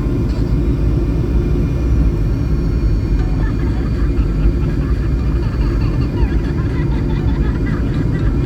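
Steady low rumble of an airliner during landing.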